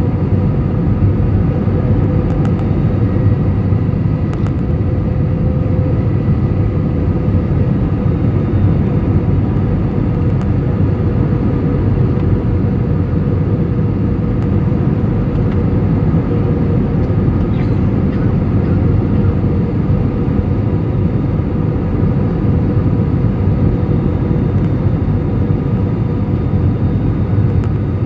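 Steady airliner cabin noise on the approach: a dense, even low rush of jet engines and airflow, with a few faint steady tones riding on it.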